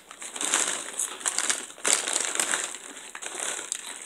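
Close-up eating noises: a Chick-fil-A chicken sandwich being chewed and handled, with irregular crackly, crunchy sounds.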